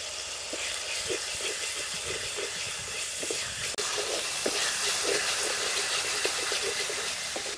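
Onion and garlic paste sizzling in hot mustard oil in a clay pot, a steady hiss, while a wooden spatula stirs it with small irregular scrapes and knocks. The sizzle briefly drops out a little before halfway, then resumes slightly louder.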